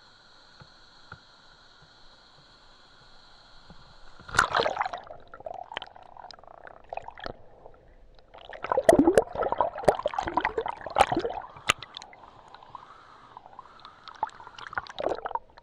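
Water splashing and sloshing in irregular bursts, starting about four seconds in and loudest in the middle, as someone moves through the pool below the waterfall.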